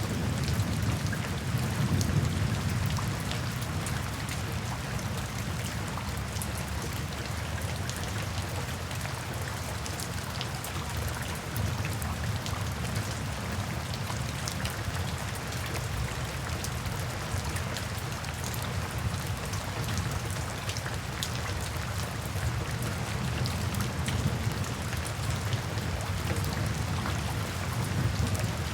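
Steady heavy rain falling, with a low thunder rumble dying away in the first few seconds. Scattered sharp crackles of a fireplace sound through the rain.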